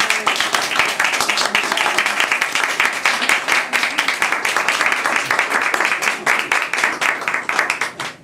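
Audience applauding: dense, steady clapping from many hands that cuts off abruptly at the end.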